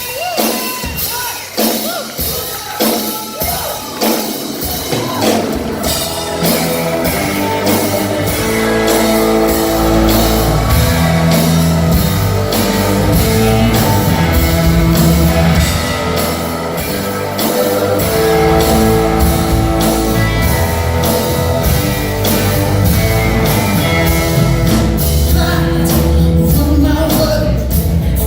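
Live blues-rock band with a lead singer. For the first few seconds the voice sings over a steady drum beat alone, then the full band comes in about six seconds in and keeps playing loud under the vocals.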